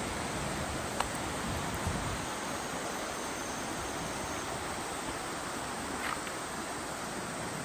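Steady rush of a mountain river's flowing water, an even wash of noise, with a couple of faint brief clicks.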